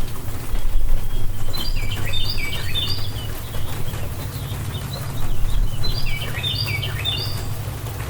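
A songbird sings two quick runs of short notes that step down in pitch, about two seconds in and again near the end. Under it is a steady wash of rain with a low rumble.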